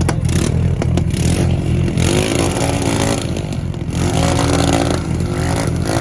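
A car engine running with a deep, steady rumble, its pitch rising and falling slightly twice.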